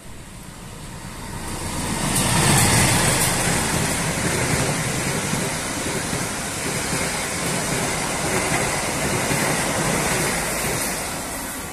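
A train passing close by: its rumble and rail noise swell over the first two seconds, hold steady, then ease off a little near the end.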